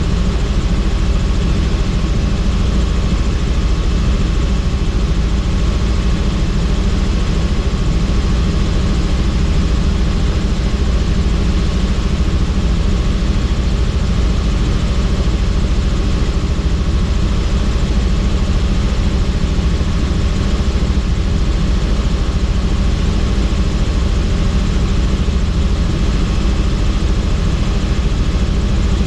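Helicopter in flight, heard from on board: a loud, steady rotor and engine drone with a hum of fixed tones and a heavy low end.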